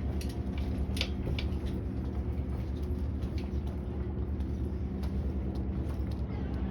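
An engine running steadily with a low, even hum, with a few sharp clicks about a second in.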